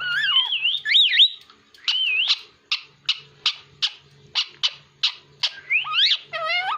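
Pet parrot whistling: a few warbling whistled glides, then a run of about ten short, sharp whistled notes, roughly three a second, ending in a couple of rising whistles.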